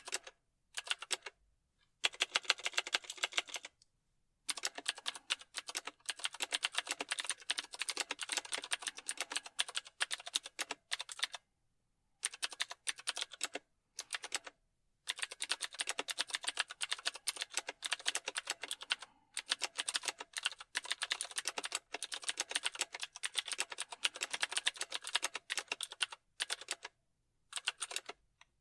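Typing on a computer keyboard: rapid keystroke clicks in bursts of a few seconds, with short pauses between runs.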